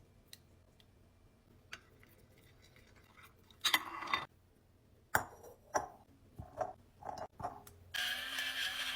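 Kitchen prep sounds: a short scrape, then several sharp clinks and taps of utensils and containers. Near the end a steady rushing sound begins.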